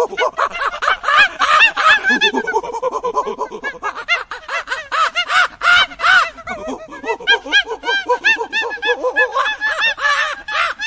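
A bird giving a rapid run of short, harsh cawing calls, several a second, without a break.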